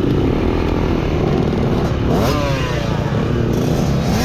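Two-stroke KTM 300 XC TBI dirt bike engine running under way, with a loud rough rattle over it. About two seconds in the revs rise and fall quickly a few times as the throttle is worked.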